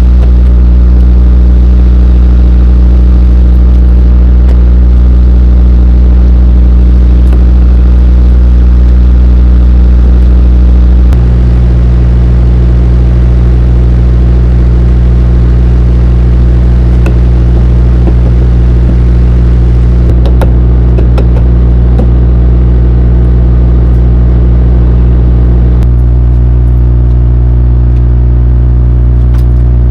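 Semi truck's diesel engine idling, a loud steady low drone heard close. The drone shifts in tone about eleven seconds in and again near twenty-six seconds.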